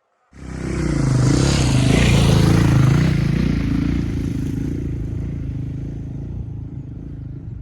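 KTM 690 adventure motorcycle's single-cylinder engine running under way on an off-road trail, its pitch rising and falling with the throttle, over wind noise and clatter. It starts suddenly a moment in and fades slowly toward the end.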